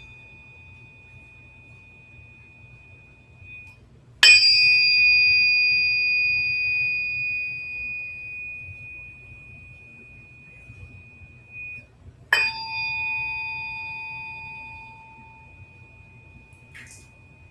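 A metal tuning fork struck twice, about eight seconds apart. Each strike gives a sharp ping that rings on as a high, steady tone fading away over several seconds.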